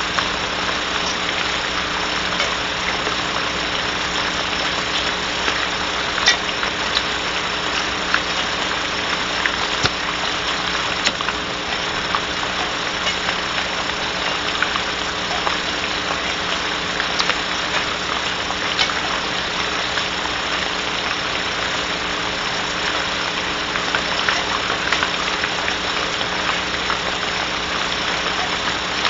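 Steady rain falling on a barn owl nest box, a continuous hiss with scattered faint ticks of drops, over a constant low electrical hum.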